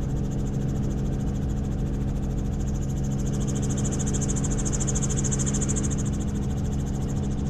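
Helicopter in flight, heard from inside the cabin: a steady engine and rotor drone, with a high hiss that swells in the middle and eases off again.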